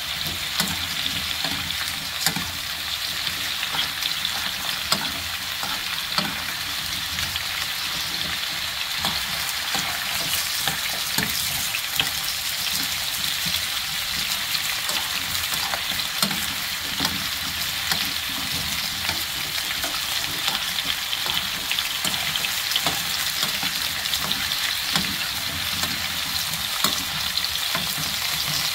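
Strips of pumpkin sizzling steadily in oil in a frying pan while being stir-fried, with a metal spoon now and then clicking and scraping against the pan.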